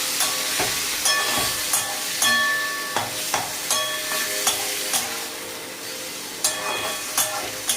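Chicken mince sizzling as it fries in hot oil in a metal kadai, stirred with a spatula. The spatula gives sharp clinks and brief metallic rings against the pan about once a second.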